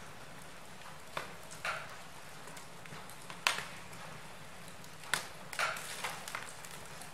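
Wood fire burning in a fireplace: a soft steady hiss with a handful of sharp crackles and pops, the loudest about three and a half seconds in.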